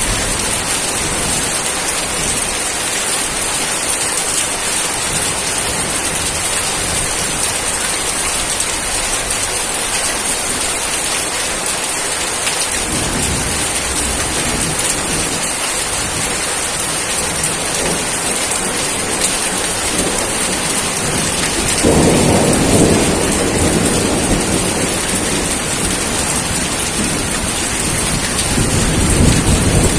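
Steady heavy rain falling, with low rolls of thunder: a faint one about halfway through, a louder one about two-thirds of the way in, and another near the end.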